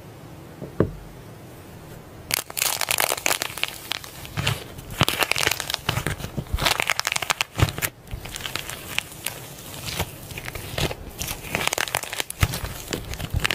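Slime being squeezed, poked and stretched by hand, making dense crackly, crinkling and popping sounds. After a faint hiss with a single click, the crackling starts about two seconds in and carries on irregularly.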